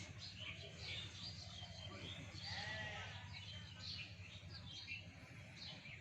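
A sheep bleats once, about two and a half seconds in, over a steady low background rumble.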